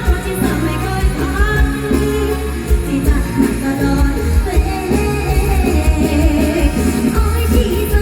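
Live mor lam band playing with a singer over a heavy, steady bass beat.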